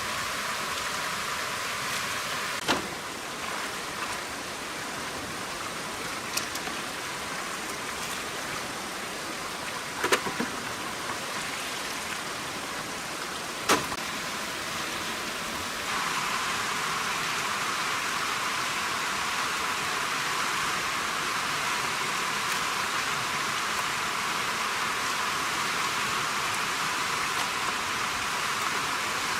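Steady rain-like hiss that gets louder about halfway through, with four sharp knocks in the first half.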